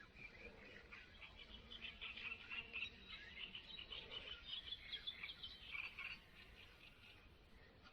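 Faint chorus of frogs calling in a rapid, irregular chatter of short high chirps, thickest in the middle and thinning near the end.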